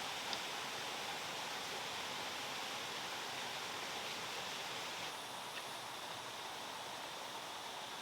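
Steady rushing of water falling over a handmade stone waterfall, dropping slightly in level about five seconds in.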